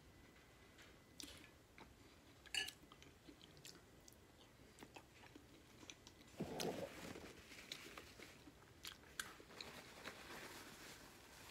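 Close-miked eating sounds: faint chewing and lip smacks on a sauce-soaked boiled egg, with a sharp click about two and a half seconds in. A paper towel rustles near the end.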